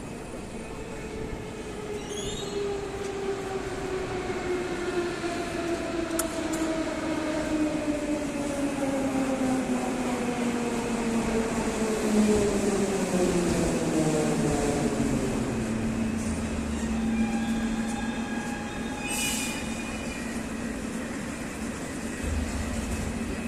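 Moscow Metro train pulling into a station and braking. Its traction motors whine, falling steadily in pitch over about fifteen seconds as it slows, then a steady hum holds while it stands. A brief hiss comes about nineteen seconds in.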